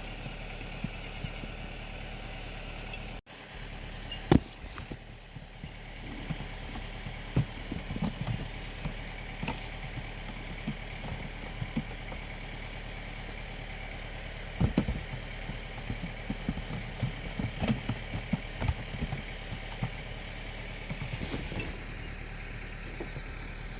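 Farm tractor engine idling steadily, with scattered knocks and rustling close by.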